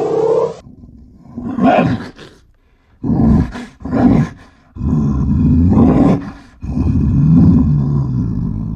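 Grizzly bear roaring and growling in a series of rough, low calls: a few short ones, then two long ones of nearly two seconds each.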